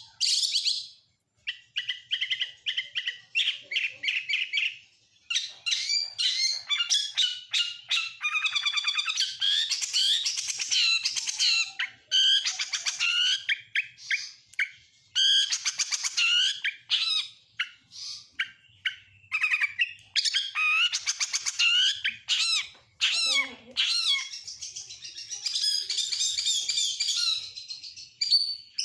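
Oriental magpie-robin (kacer) singing a long, varied song of fast chirps, trills and whistled phrases with short pauses, packed with imitations of other birds' calls.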